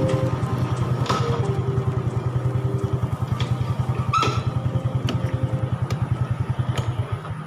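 Motorcycle engine idling with a fast, even chugging. A couple of sharp clicks come through, and the chugging stops near the end.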